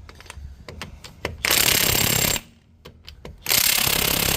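Pneumatic impact wrench hammering in two bursts of about a second each on a seized wheel nut, which does not come loose.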